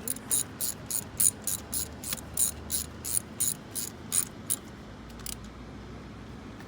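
Hand ratchet wrench clicking at about four clicks a second as it turns a spark plug. The clicking stops about four and a half seconds in, with one last click shortly after.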